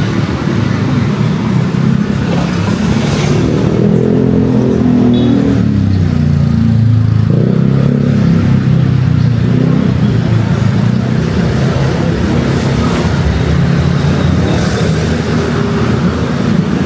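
Road traffic: cars and motorbikes running and passing close by, their engines shifting in pitch as they go.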